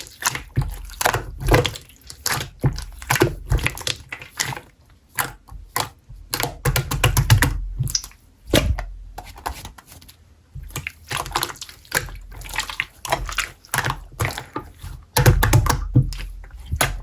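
Slime being squished and pressed by hand, making quick wet clicks and pops in irregular bursts.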